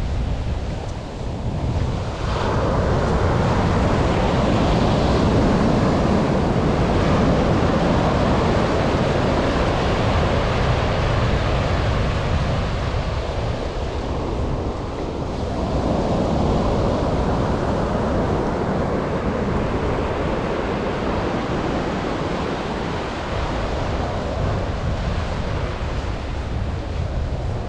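Atlantic surf breaking and washing up a sandy beach, swelling loudly about two seconds in and again around the middle, with wind rumbling on the microphone underneath.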